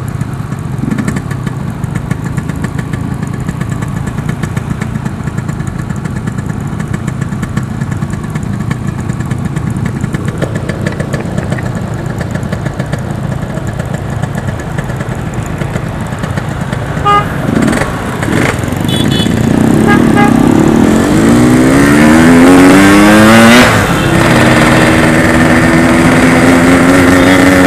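Yamaha RX-King 135 cc two-stroke single-cylinder motorcycle engine running steadily at low revs, then revving up with a rising pitch as the bike accelerates. A gear change drops the pitch suddenly near the end, and it settles into steady running at higher revs.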